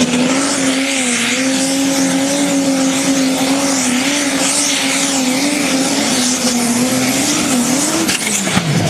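Pulling tractor's engine running flat out under load on a pull, with a steady high engine note and a loud hiss over it. About eight seconds in the note wavers, then falls quickly as the engine is throttled back.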